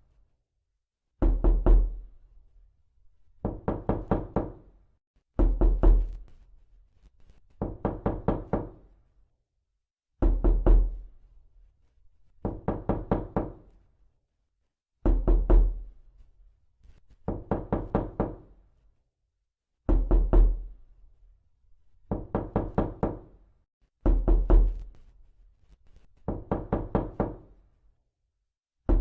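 Knocking in repeated bursts: about a dozen quick runs of roughly six knocks each, every run lasting about a second, with a pause of two to two and a half seconds between runs.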